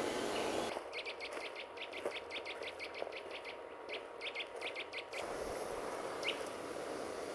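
A bird calling a fast series of short, high notes, about eight a second, for some four seconds, then one more single note near the end.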